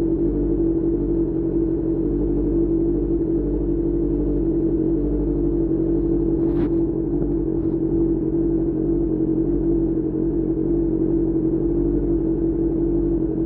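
QJ Motor SRK600 inline-four engine running through a Pure Austin Racing GP1R exhaust, holding steady revs with an even, unchanging drone. A brief click about six and a half seconds in.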